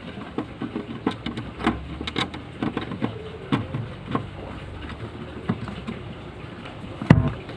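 Irregular clicks and knocks of objects being handled, over a low steady hum, with a louder knock about seven seconds in.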